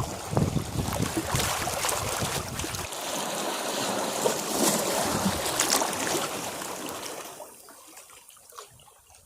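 A sea wave breaking against rocks: a low, churning rush of water for the first few seconds, swelling into a broad hissing wash, then draining away into faint trickles near the end.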